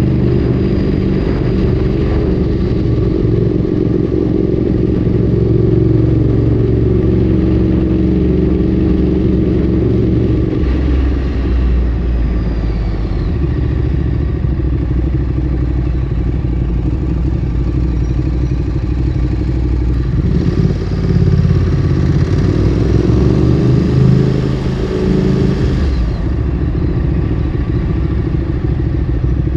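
Ducati Streetfighter 848's L-twin engine through a Termignoni exhaust, heard from the bike in town riding. For the first ten seconds the engine note rises and falls with throttle and gear changes. It then settles into a steady low note, and rises and shifts again between about twenty and twenty-six seconds before steadying once more.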